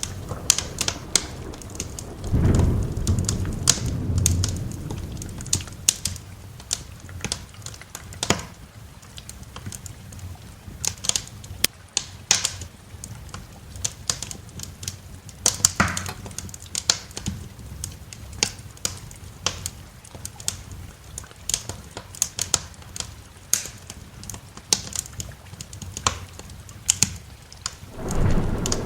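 Wood fire crackling in a fireplace, with many sharp pops and snaps, over steady rain. A low rumble of thunder comes about two seconds in and fades over a few seconds, and another begins near the end.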